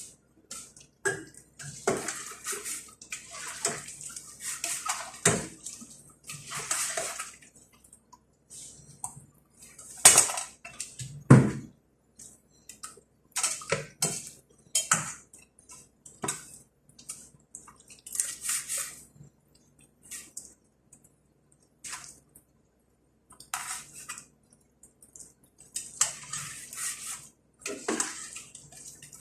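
Kitchen clatter of pots and utensils with splashing water, in irregular bursts separated by short pauses, with two sharp louder knocks about a third of the way through.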